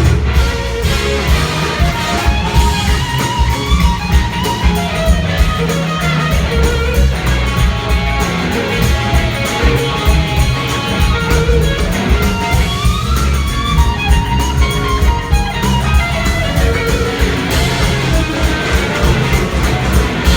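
Live blues-rock band playing an instrumental passage: electric guitar leading over bass and a steady drum beat.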